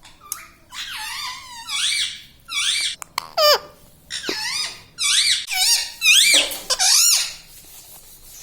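Ringneck parrot giving a string of about ten high, squeaky calls, each sliding up and down in pitch.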